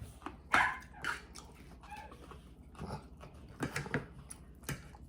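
A dog giving a handful of short, separate yips and barks, quieter than the talk around them.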